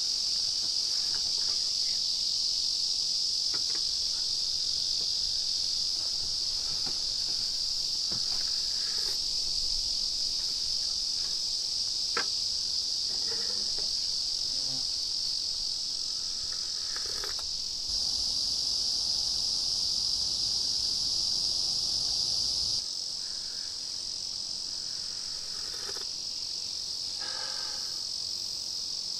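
Steady chorus of night crickets, one continuous high-pitched trill, with scattered faint clicks and knocks beneath it.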